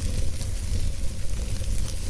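Wood fire burning in a fireplace: a low, steady rumble of flames under a soft hiss, with a few small crackles from the burning logs.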